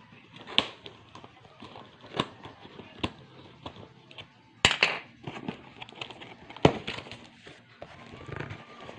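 Scattered sharp clicks and knocks of hard objects being handled and set down, about half a dozen over nine seconds with quiet between them. No motor is running.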